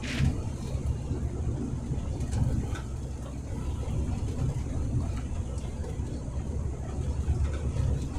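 Truck cab while driving: a steady low engine and road rumble, with a few light ticks here and there.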